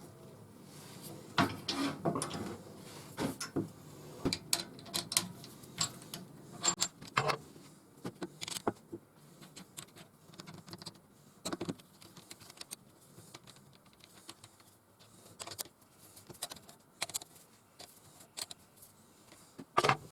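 Irregular metal clicks and knocks of a wooden blank being fitted into a woodturning lathe chuck and the chuck jaws being tightened, with no motor running.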